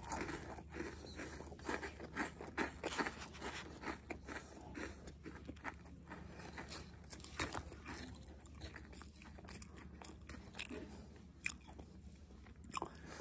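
A person chewing crunchy Parle-G glucose biscuits close to the microphone: a run of small dry crunches, thick in the first few seconds and thinning out later.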